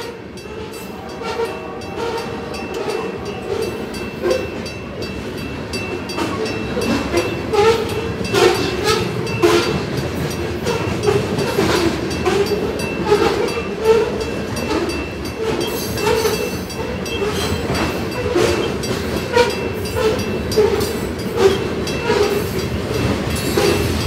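Covered hopper cars of a grain train rolling through a grade crossing, their wheels clacking and knocking over the rail joints in an irregular run. A crossing bell, an old GS bell fitted with a WCH electronic sound card, rings over the rumble of the cars.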